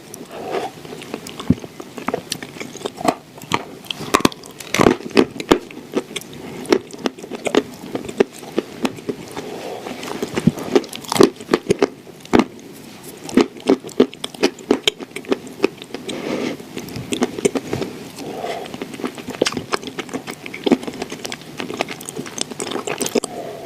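Close-up crunching and chewing of dry edible clay pressed into shortbread-cookie pieces: irregular sharp crunches and crackles, several per second, with softer chewing between them.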